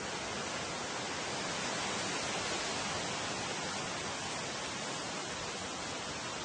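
Wind blowing through tree foliage, a steady rushing hiss of moving leaves that swells slightly and eases again.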